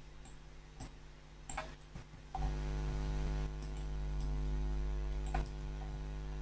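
A few faint clicks of a computer mouse and keyboard. About two and a half seconds in, a steady electrical hum with many overtones starts.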